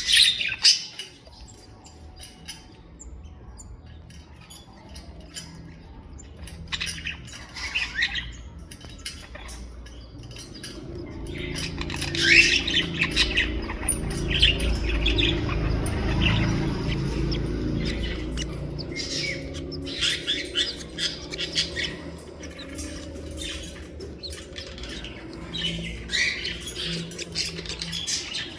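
Pet birds chirping and squawking in short scattered calls, the loudest about twelve seconds in. A low rumble builds up in the middle and fades again.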